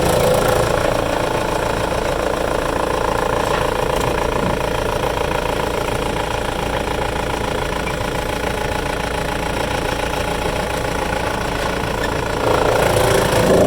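Wood chipper's engine running steadily, growing louder again about twelve and a half seconds in.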